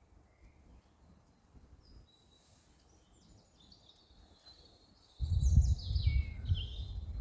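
Songbirds calling with short high chirps, faint at first and loudest near the end, some notes sliding downward. About five seconds in, a loud low rumble sets in beneath them.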